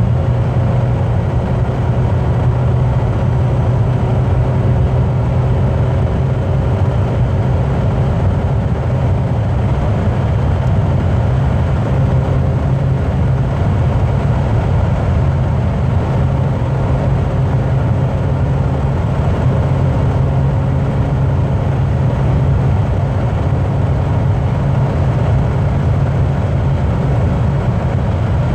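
Steady road and engine noise of a car driving at motorway speed, a constant low hum with no change in pace.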